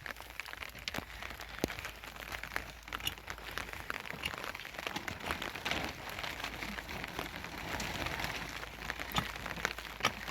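Heavy rain falling: a steady hiss with many irregular sharp drop ticks.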